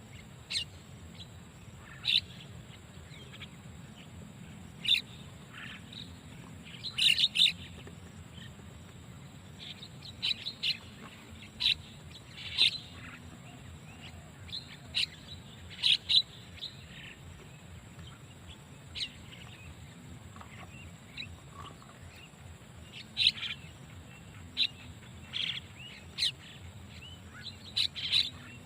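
Starling (jalak) chirps: short, sharp calls come one or a few at a time, irregularly, with denser clusters about a third of the way in and near the end.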